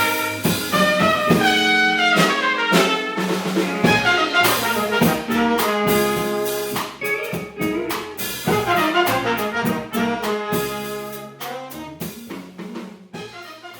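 Small jazz ensemble playing an instrumental passage, horn-led over a drum beat. The music fades out over the last few seconds.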